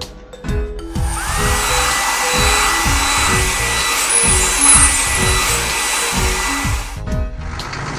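A cartoon car-wash machine sound effect: a steady hissing blast, like a blower or spray, with a thin whine that rises and then holds. It starts about a second in and stops near the end, over light, bouncy background music.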